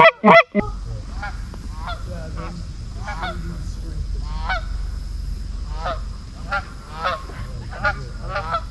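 A flock of geese honking: a few very loud, close calls in the first half-second, then many shorter falling honks at a steady pace, over a low rumble of wind on the microphone.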